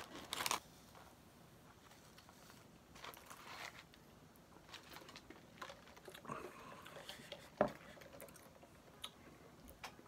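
Paper sandwich wrapper crinkling briefly, then a person quietly biting and chewing a crispy chicken sandwich, with faint scattered crunches and mouth sounds and one sharp click about three-quarters of the way through.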